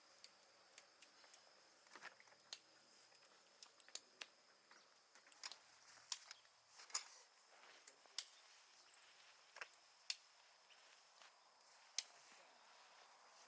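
Irregular light clicks and taps, a dozen or so spread unevenly, from small camping gear being handled, over a faint steady high-pitched tone.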